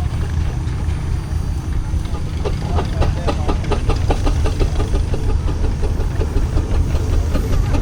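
Steam traction engine running, its exhaust giving quick, even chuffs from a couple of seconds in, over a steady low rumble.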